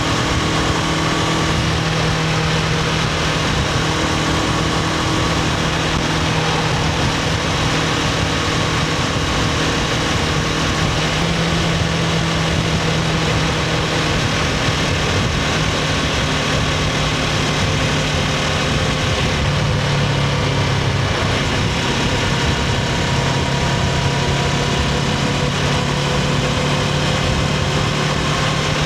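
2024 Honda CBR500R's parallel-twin engine running on its stock exhaust at a nearly steady engine speed, with a slight change in pitch about two-thirds of the way through. An even rush of noise runs underneath.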